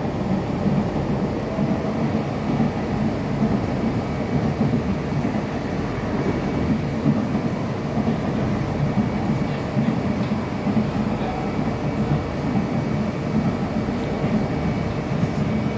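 Train running, a steady low rumble with no breaks.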